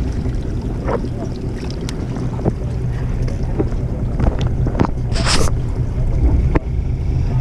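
Fishing boat's engine running with a steady low hum, wind buffeting the microphone, a few light knocks, and a short hiss about five seconds in.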